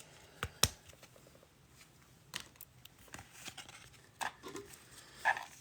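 Trading cards being handled and flipped through: a few scattered soft clicks and taps.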